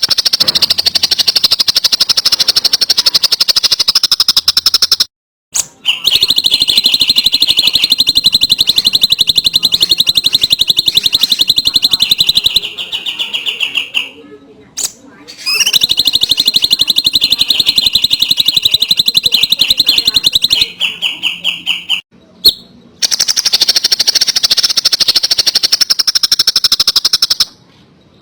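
Songbird giving long, very rapid rattling trills at a high pitch, each held for several seconds with short breaks between. Some trills sit higher and some lower, and one drops in pitch as it fades.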